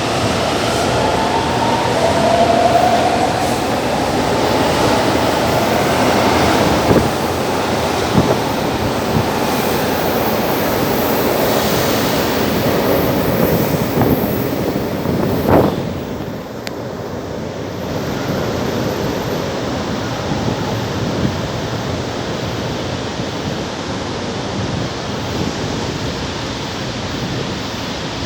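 São Paulo Metro train running through the station with a steady rumble, with a motor whine gliding up and down in pitch in the first few seconds. A short sharp sound about fifteen seconds in is followed by a drop in the noise.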